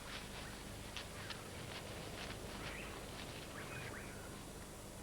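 Faint bush ambience with scattered short bird chirps and calls, some with quick curving pitch.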